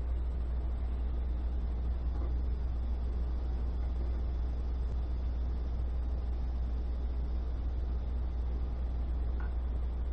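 Steady low hum with a fainter even hiss above it, unchanging throughout.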